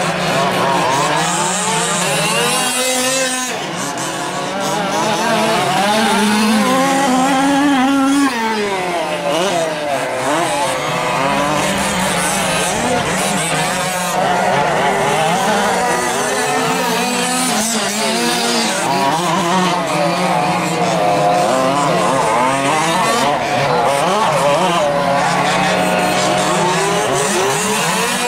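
A pack of 1/5-scale RC off-road trucks racing, their small two-stroke gasoline engines buzzing and revving up and down together, the pitches of the several engines weaving around one another.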